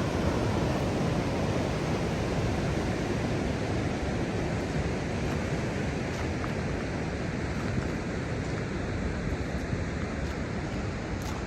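Ocean surf rushing steadily in a continuous wash, with wind on the air.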